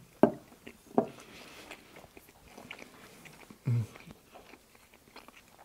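A man chewing a mouthful of pasta and meatballs, with a few short appreciative "mmh" hums.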